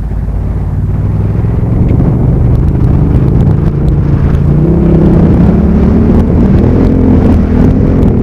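Motorcycle engine running under heavy wind rumble while riding. The engine note rises and falls from about halfway through.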